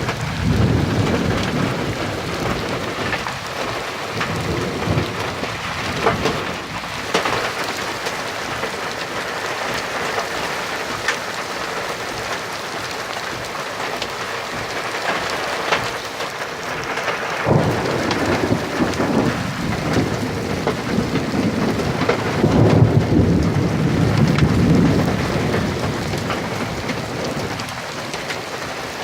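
Steady rain falling on surfaces during a thunderstorm, with thunder rumbling several times: near the start, past the middle, and a longer roll about three quarters of the way through.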